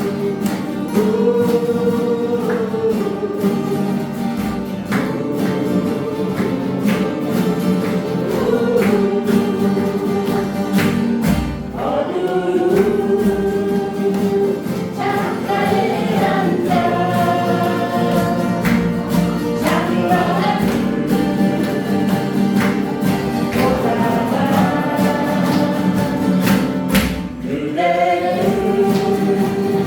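A group of people singing a song together in chorus with acoustic guitar accompaniment.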